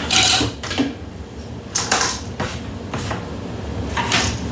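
Kitchen things being handled on a counter: a few short knocks and rustles, the loudest just after the start, others about two seconds and four seconds in.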